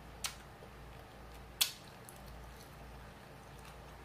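Wet mouth noises from chewing a sauced fried chicken wing: two short smacking clicks, about a second and a half apart, the second louder.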